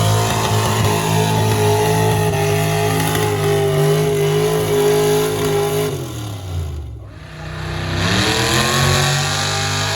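Truck engine running hard at steady high revs. About six seconds in, the revs fall away and it goes briefly quieter, then the engine revs back up.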